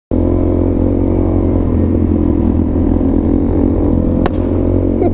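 Motorcycle engine running steadily, starting abruptly at a cut, with a single sharp click about four seconds in.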